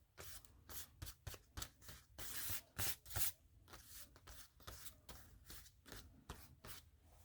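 Paper being handled and rubbed down: a string of short crisp rustles and crackles, loudest in the first half.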